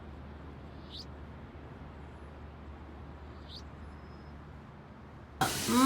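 Steady low background hum and hiss, with a few faint, short, high chirps that fall in pitch, one about a second in and another past three seconds. Near the end a loud voice starts abruptly.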